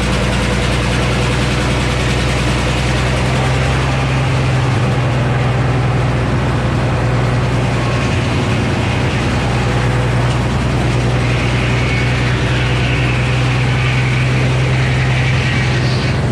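Frick sawmill running with its 48-inch circular saw: a steady heavy engine drone and saw noise. From about two-thirds of the way in a brighter, higher band joins, as the blade works through the big poplar log.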